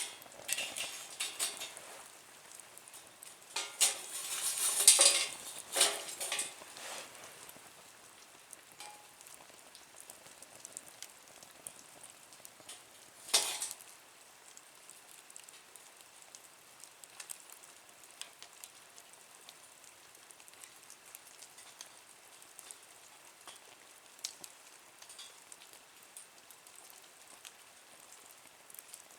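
Small wood fire in a nature stove crackling and sizzling, with a few louder bursts of noise in the first seven seconds and one sharp crack about thirteen seconds in, then only faint scattered crackles.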